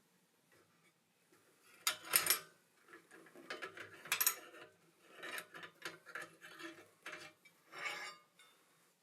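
Metal scraping and clinking in short, irregular bursts, the loudest about two and four seconds in: forging tools and iron being handled and worked.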